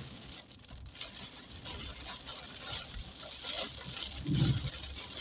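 Heavy rain pattering on a car's windshield and body, heard from inside the cabin, with the hiss swelling and fading about once a second as the wipers sweep. A short low thump comes about four seconds in.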